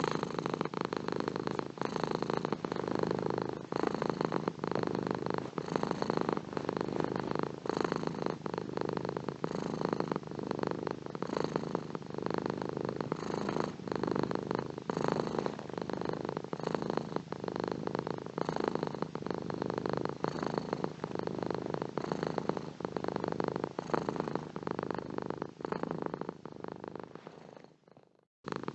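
Domestic cat purring steadily, swelling and easing with each breath about every two seconds. The purring fades away near the end, then starts again.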